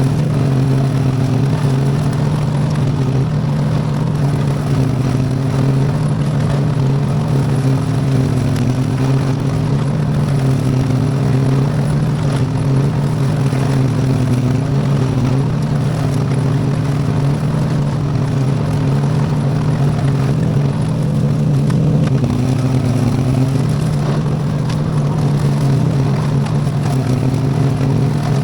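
A V-twin Briggs & Stratton engine in a repowered Iseki compact tractor, running steadily under load while mowing with a bush hog. Its low, steady hum wavers only slightly in pitch.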